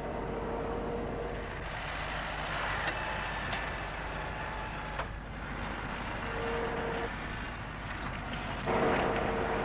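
Massey Ferguson 600-series tractor's Perkins diesel engine running steadily, with a single sharp click about five seconds in.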